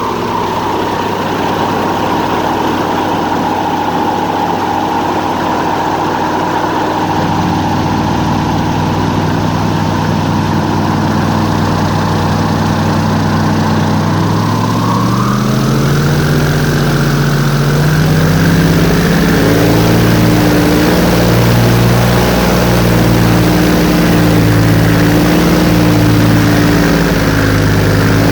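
Airboat engine and propeller running steadily; the engine speeds up about halfway through, then holds at the higher speed with a slow, even throb.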